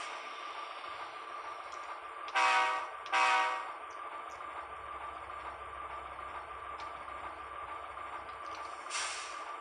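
Tsunami Alco sound decoder in an HO-scale dummy locomotive, playing through its small speaker: two short diesel horn blasts about two and a half seconds in, over a steady hiss of the engine running sound, with a brief burst of hiss near the end.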